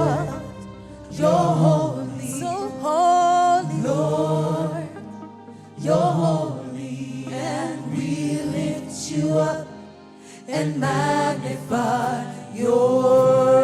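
Gospel worship music with wordless singing and vocal runs over a steady accompaniment, in phrases with short pauses.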